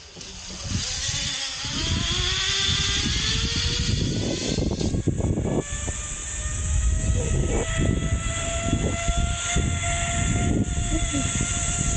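Zipline trolley pulleys whining along the cable. The whine climbs in pitch over the first five seconds as the rider picks up speed, then holds steady. Wind rushes over the microphone throughout.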